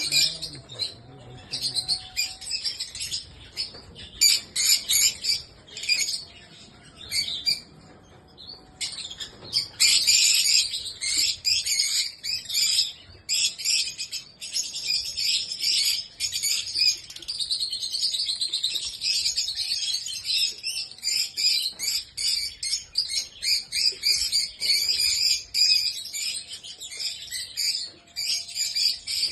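Pet lovebirds and cockatiels chirping in a fast, almost continuous run of high chirps, easing off briefly about eight seconds in before growing dense again.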